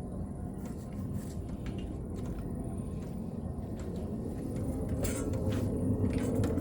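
Diesel air heater starting up: its blower runs with a steady hum that grows louder near the end, with scattered light clicks from its fuel pump.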